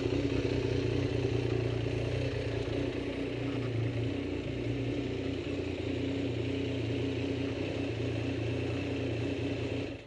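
A vehicle engine running at a steady speed, which cuts off abruptly near the end.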